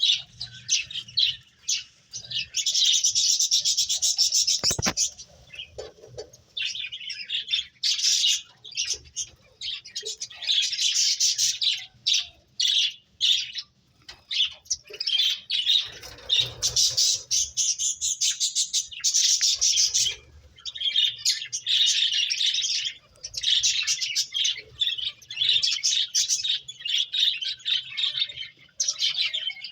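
A group of pet finches chirping busily, many short high chirps overlapping in bouts of a few seconds with brief lulls between them. A single low knock sounds about five seconds in.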